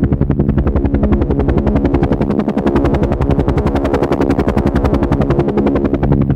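Helicopter in flight: the rotor blades beat in a fast, steady rhythm of about ten thumps a second over a constant low engine hum.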